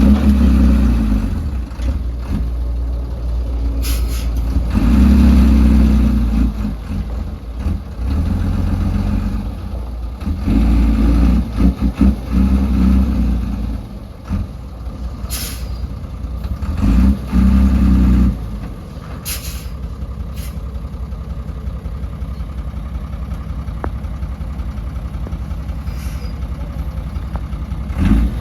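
Heavy diesel engines of earthmoving machinery working: the engine note surges up under load and drops back several times, with a few short sharp hisses, then settles to a steadier idle for the last ten seconds or so.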